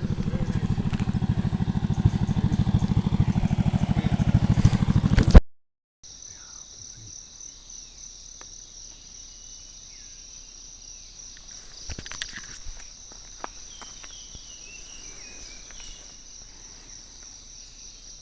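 Motorbike engine running at low speed for about five seconds, then cutting off suddenly. After that, a much quieter steady high-pitched insect drone, with faint chirping calls and a few light clicks.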